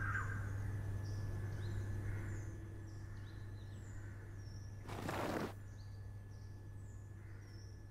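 Faint birds chirping in short high notes over a steady low hum, with a brief rustling noise about five seconds in.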